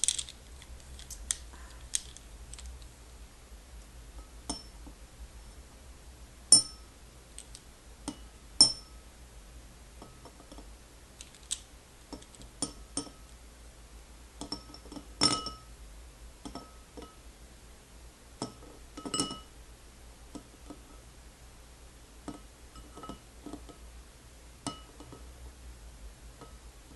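Curtain rings clinking against each other in scattered, irregular clinks, each with a brief bright ring, a few of them much louder than the rest.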